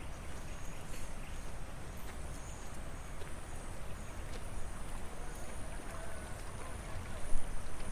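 Outdoor countryside ambience: wind rumbling on the microphone, a steady high-pitched whine and faint distant voices, with a short bump near the end.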